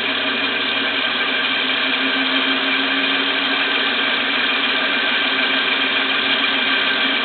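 Homemade six-cylinder compressed-air engine running steadily, a dense, even mechanical sound.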